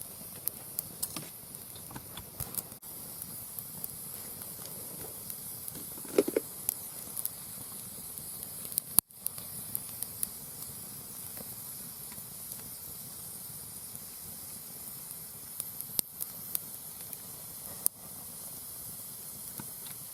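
Mixed hardwood firewood burning in a steel fire pit: a steady hiss with scattered crackles and sharp pops, a few of them louder.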